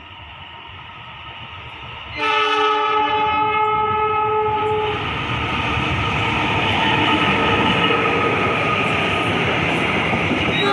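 Passenger train led by a KAI diesel-electric locomotive approaching and passing close by. About two seconds in, the locomotive's horn sounds one blast of several tones at once for a couple of seconds. After that comes the loud rumble of the locomotive and coaches rolling past on the rails.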